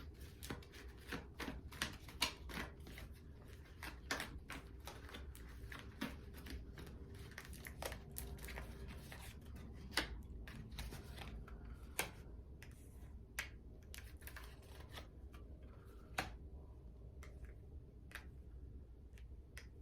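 Tarot cards being shuffled and handled: a quick run of light flicking and tapping clicks that thins out to scattered taps in the second half, as clarifier cards are drawn.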